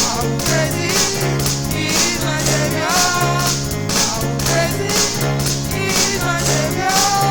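Church praise music with a steady beat, a repeating bass line, cymbal hits and a singing voice.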